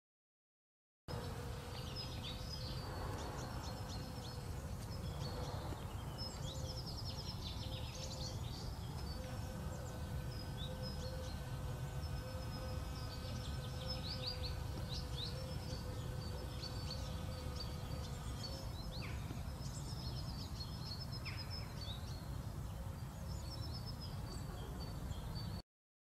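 Outdoor spring ambience: small birds chirping and twittering in quick repeated calls over a steady low background rumble and a faint steady hum. It starts about a second in and cuts off abruptly near the end.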